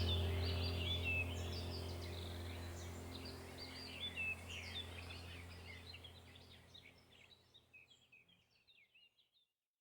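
Many small birds chirping and twittering over a low steady hum, the whole fading out over about seven seconds into silence.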